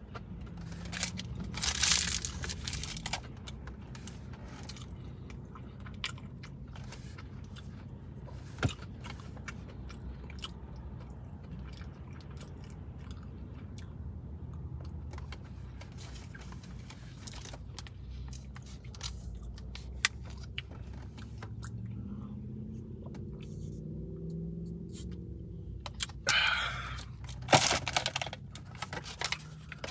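Close-up chewing and crunching of crispy fried food, with scattered sharp mouth clicks and louder crunchy bites about two seconds in and near the end.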